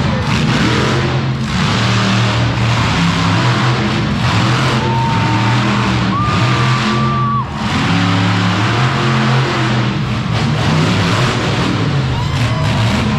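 Monster truck engine running loud and steady, over music from the arena sound system.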